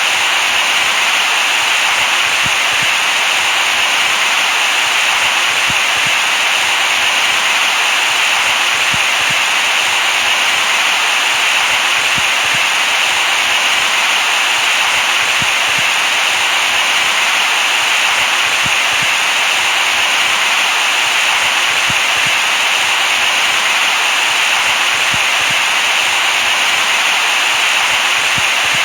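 Steady white noise used as a baby sleep sound: a loud, even, unchanging hiss.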